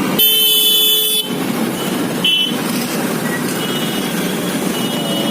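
Vehicle horn sounding for about a second near the start, then a shorter toot about two seconds in, over steady road-traffic and engine noise in a congested street.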